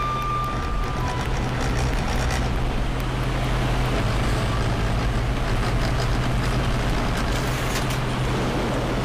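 Steady low hum of a running engine, with an even noisy rush over it.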